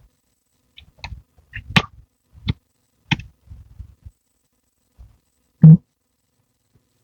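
A series of sharp knocks, irregularly spaced over a few seconds, then one louder, lower thump about five and a half seconds in.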